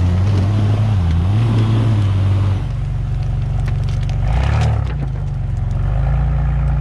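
Off-road 4x4 engine revving up and down as the vehicle works through mud and brush, settling to a steadier note about two and a half seconds in, with a brief rev and a few sharp cracks near the middle.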